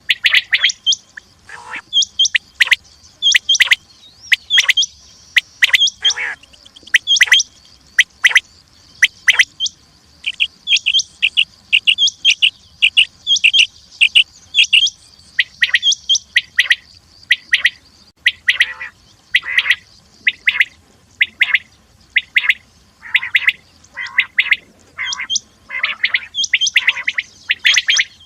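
Common quail calling: many short, sharp, high calls repeated over and over, often in quick groups of two or three, the kind of recording hunters play as a lure.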